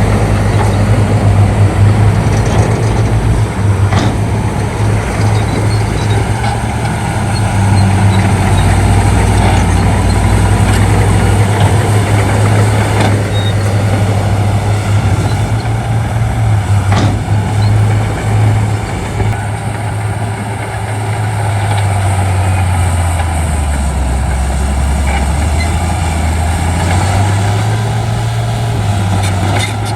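Shantui D95 bulldozer's diesel engine running loud and steady with a few sharp clanks. The engine note drops lower about two-thirds of the way through and rises again near the end.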